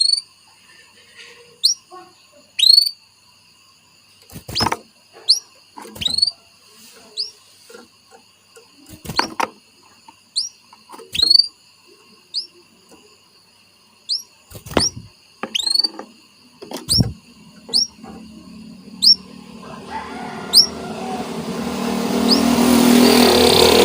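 Canary giving short, rising chirps one at a time every second or so, with a few sharp clicks in between. Near the end, a denser, louder sound swells in.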